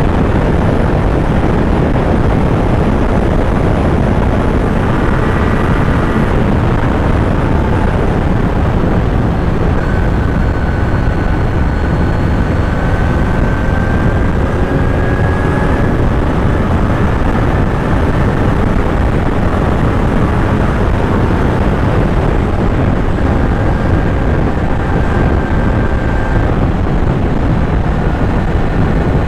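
Kawasaki Z900 motorcycle's inline-four engine running steadily on the move, under a heavy rush of wind noise, its pitch drifting slowly upward at times.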